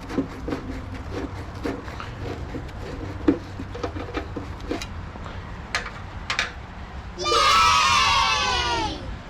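Light metallic clinks and taps from hand tools working on the car, some ringing briefly. About seven seconds in comes a louder pitched sound that slides down in pitch for about two seconds.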